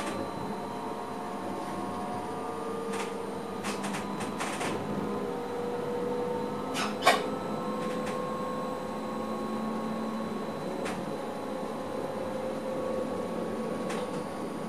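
Electric passenger train running, heard from inside the driver's cab: a steady running noise with a faint hum, broken by sharp clicks, a quick cluster about four seconds in and the loudest about seven seconds in.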